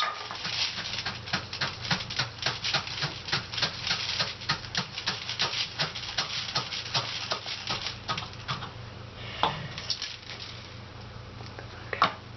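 Dry rice rattling into a plastic pop bottle: a rapid, uneven run of small ticks that thins out about three-quarters of the way through, with a couple of louder clicks near the end.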